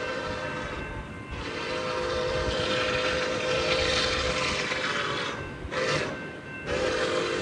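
Diesel locomotive air horn sounding the grade-crossing signal: long, long, short, long, with the rumble of a passing train under it.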